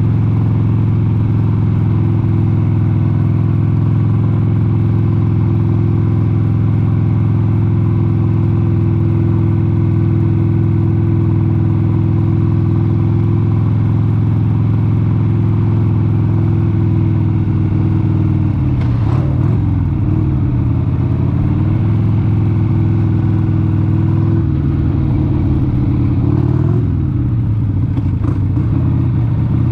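1996 Harley-Davidson XLH883 Sportster's 883 cc V-twin engine running under way at a steady pitch. A little past halfway the engine note drops and wavers, and near the end it rises and falls again as the engine speed changes.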